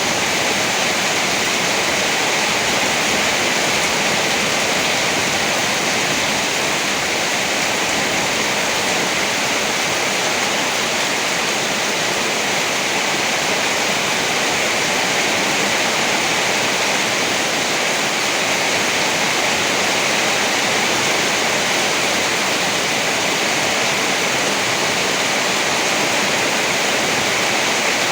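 Heavy rain falling in a steady, unbroken hiss, with no thunder.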